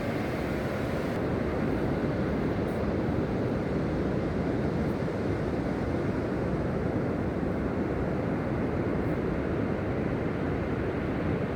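Steady low rush of ocean surf and wind, unbroken.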